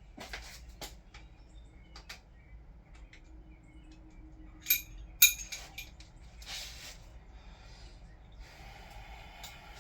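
Socket and ratchet clicking and clinking against metal while cam cap bolts are run down by hand: scattered light clicks, two sharper metallic knocks near the middle, and short stretches of rustling.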